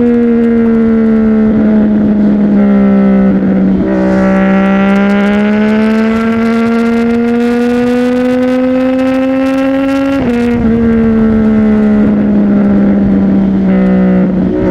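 CFMOTO 675NK's three-cylinder engine running through a titanium exhaust while riding under steady throttle. Its pitch sags at first, climbs slowly from about four seconds in, and drops at a gear change around ten seconds in.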